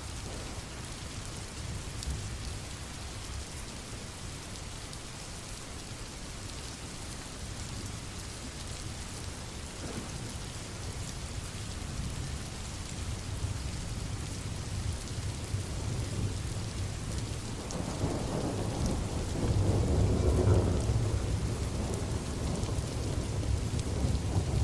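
Steady rain falling, with a low thunder rumble underneath that swells into a louder roll of thunder about three-quarters of the way through.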